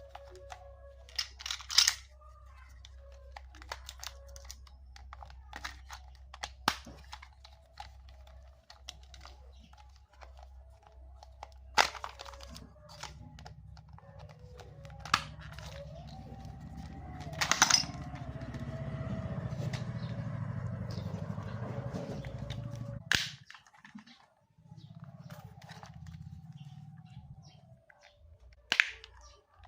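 Plastic clicks and handling knocks, with a small battery toy motor buzzing from about thirteen seconds in until it cuts off suddenly, then buzzing again briefly near the end.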